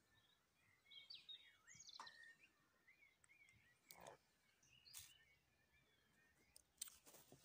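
Near silence with faint birds chirping in the background and a few soft clicks.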